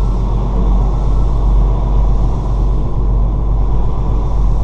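Semi-truck tractor's diesel engine running steadily, a loud low rumble heard from inside the cab.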